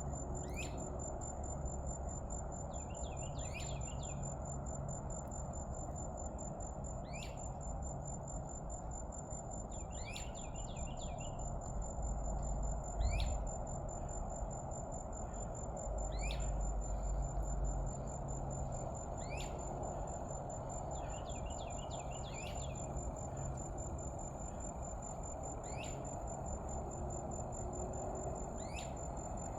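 Evening outdoor ambience: a steady high-pitched insect trill throughout, with a bird giving sharp descending calls every few seconds, sometimes with a quick run of notes. A low rumble swells briefly near the middle.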